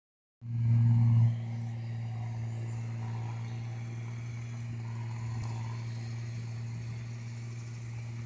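Freight train of covered grain hopper cars rolling past, heard as a steady low hum, louder for about the first second.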